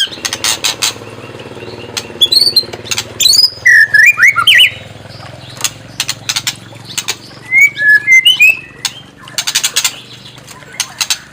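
White-rumped shama (murai batu) singing in bursts. Loud harsh rasping phrases alternate with quick sweeping whistled notes, over a steady low hum.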